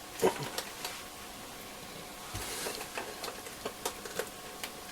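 Scattered small clicks and knocks of a Roberts R707 transistor radio's chassis being worked by hand out of its case, with a dull thump about two and a half seconds in.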